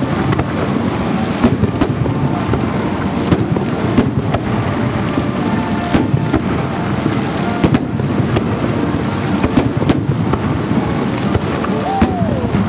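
Holiday fireworks salute: a continuous rumble of bursting shells with frequent sharp bangs, and a short falling whistle near the end.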